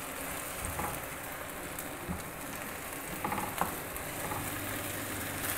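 Beaten eggs and onion-tomato masala frying in a non-stick pan over a low flame: a faint, steady sizzle, with a few soft scrapes and taps of a silicone spatula stirring and breaking up the eggs.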